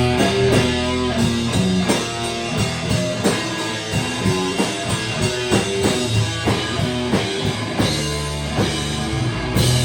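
Rock band playing: guitar over a drum kit with a steady beat, and a cymbal crash near the end.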